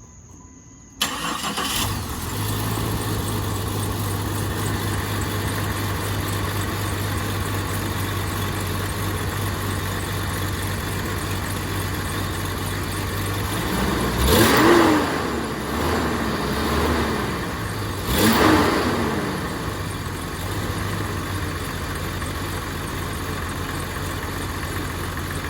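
Jeep XJ Cherokee six-cylinder engine started about a second in, then idling steadily, with two brief revs in the middle. It is running on new spark plugs, being checked for a misfire that had shown only at idle.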